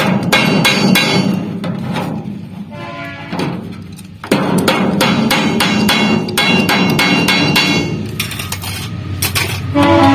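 A hammer striking a sheet-metal pot made from old refrigerator panels, in quick even blows of about four a second that ring metallically. The blows ease off about two seconds in and resume sharply about four seconds in.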